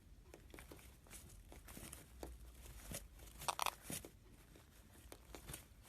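A string of crinkling, crackling and tearing noises, like something being crumpled or torn, with a louder cluster about three and a half seconds in.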